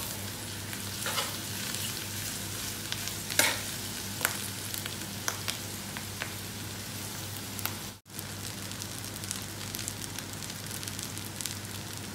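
Pork, mushrooms and sweet corn sizzling as they are stir-fried in a metal wok, with a spatula scraping the pan in several sharp strokes. After a short break two-thirds of the way through, fried rice sizzles on in the wok with lighter scrapes.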